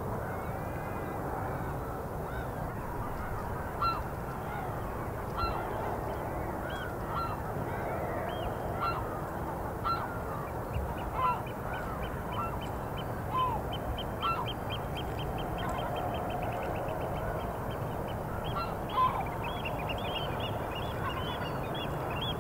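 Birds honking repeatedly, one short call every second or two, over a steady low background noise. A fast run of high chirps joins about halfway through.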